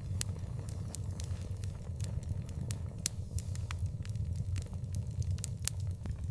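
Wood fire in an outdoor fireplace crackling: sharp, irregular pops and snaps over a steady low rumble of the flames, with a few louder pops standing out.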